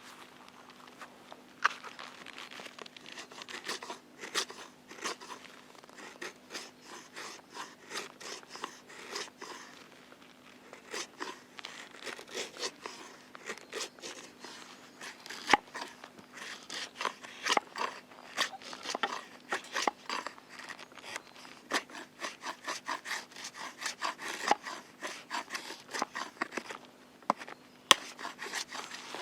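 Rapid, uneven rubbing or scraping strokes, many a second, with a couple of sharper knocks about halfway through and near the end.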